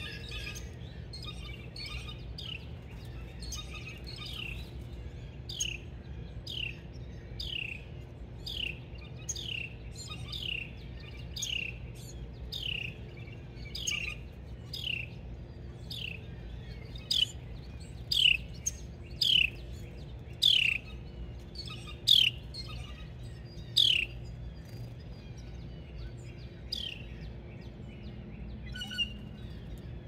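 A bird calling at a backyard feeder, repeating a single falling note about once a second in a long, steady series. The notes grow louder for several seconds past the middle.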